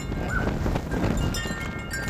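Wind buffeting the microphone as a steady low rumble, with wind chimes ringing in several high, lingering tones. A short high call sounds about half a second in.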